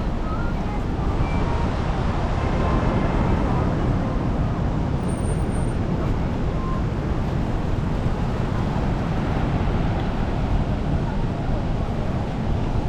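Steady low outdoor rumble with faint distant voices now and then.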